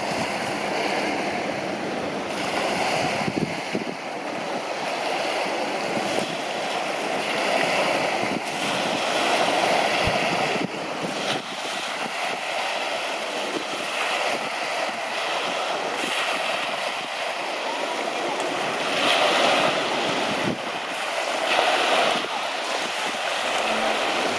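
Wind buffeting the microphone over the rush of sea waves, swelling and easing every few seconds.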